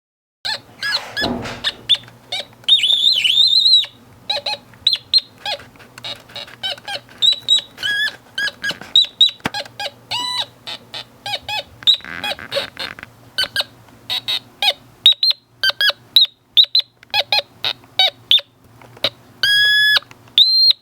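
Drawdio pencil synthesizer playing a string of short electronic beeping tones, the pitch jumping from note to note as the pencil touches different keys of a piano drawn in graphite, the pitch set by the graphite's resistance. A few notes waver or glide, and two are held longer, one about three seconds in and one near the end.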